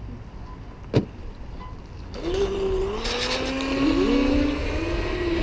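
Brushless electric motor of an RC racing speedboat whining under throttle from about two seconds in, its pitch rising and falling as the throttle is worked. A single sharp knock comes about a second in.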